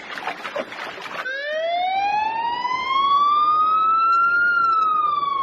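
Emergency vehicle siren wailing: it starts about a second in and climbs slowly in pitch for about three seconds, then begins to fall. Before it comes a moment of clattering noise.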